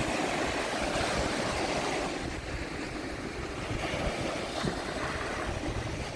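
Steady wind buffeting the microphone over the constant wash of surf on the beach.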